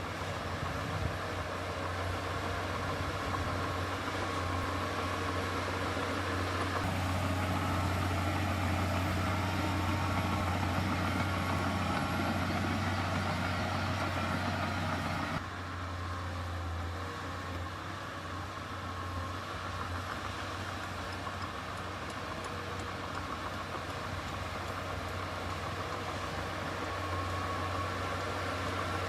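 Heavy diesel earthmoving machinery running with a steady low drone, working harder for a stretch and then changing abruptly about halfway through.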